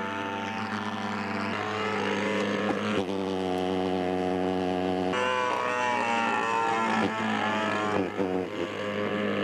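Engine of a large-scale radio-controlled model Sopwith 1½ Strutter running in flight, a steady drone whose pitch jumps a few times and then rises and falls as the plane passes.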